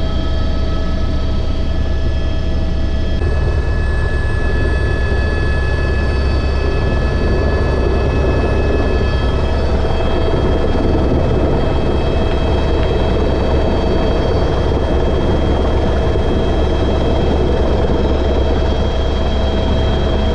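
Helicopter running in flight: a steady low drone with a noisy rush and several thin, steady high whining tones. The sound shifts slightly about three seconds in.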